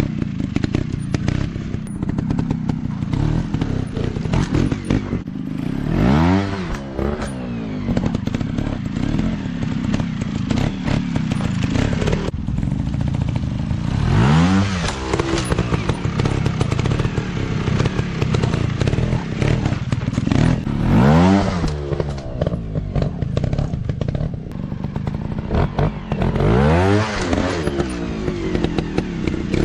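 Off-road dirt bike engines running steadily, rising in pitch and falling back in four surges spread through the stretch.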